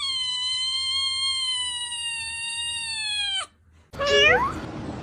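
Domestic cat giving one long drawn-out meow, held at a nearly steady pitch that sags slightly for about three and a half seconds, then stopping abruptly. About a second later comes a shorter meow that rises in pitch. The cat is protesting at being kept indoors.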